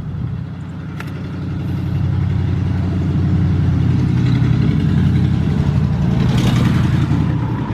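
A motor vehicle's engine running, swelling louder about two seconds in and easing off near the end.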